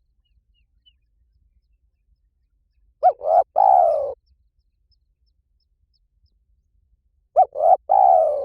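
Spotted dove cooing: two phrases about four seconds apart, each two short coos followed by a longer, falling coo.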